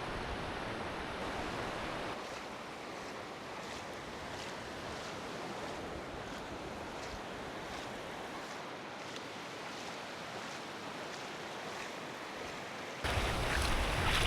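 Sea surf washing onto a sandy beach, an even rushing sound. Near the end it suddenly gets louder, with wind buffeting the microphone.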